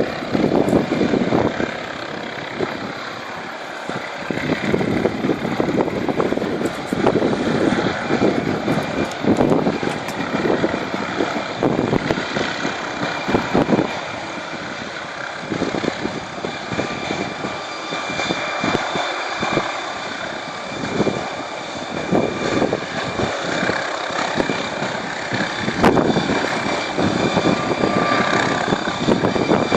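Helicopter running, a steady turbine and rotor drone with a faint high whine, with gusts of wind buffeting the microphone.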